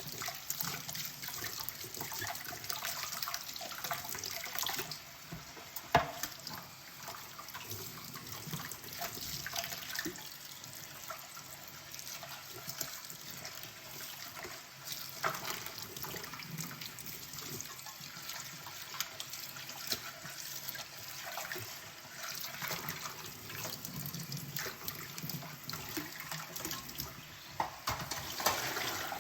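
Hand dishwashing at a kitchen sink: tap water running and splashing while dishes clink and knock against each other, with one sharp knock about six seconds in.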